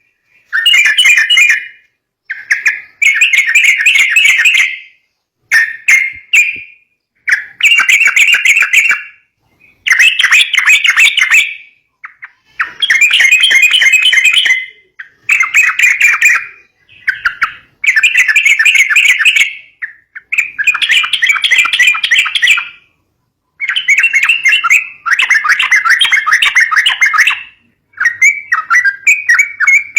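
Yellow-vented bulbul (trucukan) calls: loud chattering bursts of one to two seconds, about a dozen of them with short pauses between, the kind of call played to lure young bulbuls.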